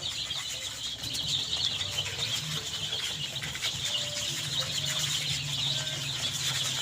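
A brooder full of six-day-old ISA Brown pullet chicks peeping continuously, many small overlapping chirps, with a low steady hum underneath.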